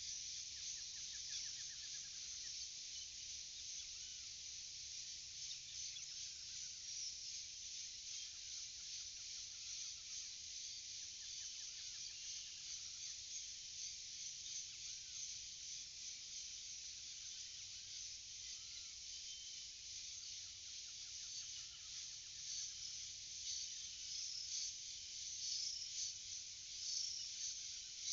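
Forest ambience: a steady high-pitched chorus of insects, likely crickets, with short rising-and-falling bird calls repeating throughout.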